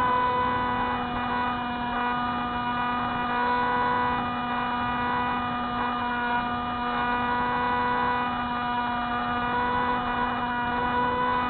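Spyhawk FPV model plane's motor and propeller running in flight, a steady whine at nearly constant pitch over a rushing noise.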